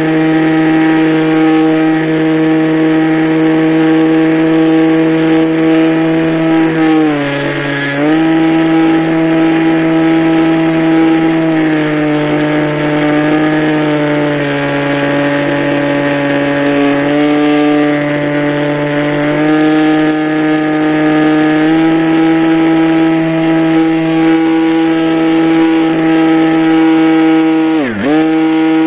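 Radio-controlled model airplane's engine running at a steady tone. The pitch drops briefly about a quarter of the way in and sits lower for a stretch in the middle as the throttle eases. Near the end the pitch plunges and comes straight back up, a quick throttle chop and reopen.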